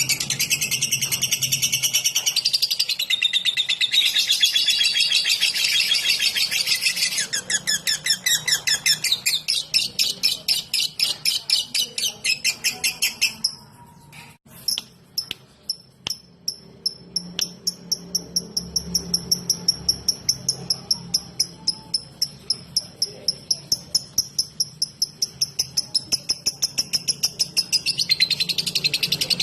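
Lovebird in 'ngetik' song: a long run of fast, dense, high chirping that breaks off about 13 seconds in for a couple of seconds. A few clicks fall in the break, then the chirping resumes as a steady repeated note a few times a second and turns dense and rapid again near the end.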